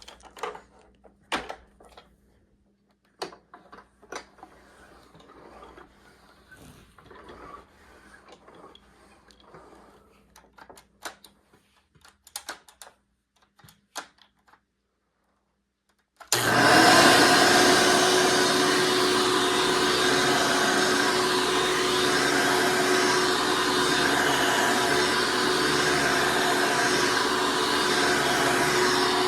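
Scattered clicks and handling knocks, then a 2008 Hoover Elite C104 vacuum cleaner switched on about halfway through, its motor coming up to speed at once and running steadily with a hum.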